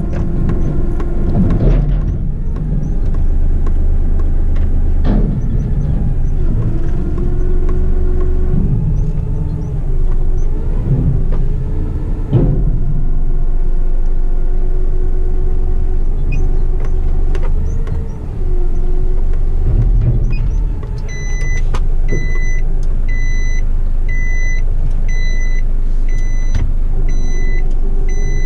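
Heavy rigid truck's diesel engine running while driving, its pitch rising and falling with speed, with a few knocks and rattles. About three-quarters of the way through, a high electronic beep starts repeating about once a second.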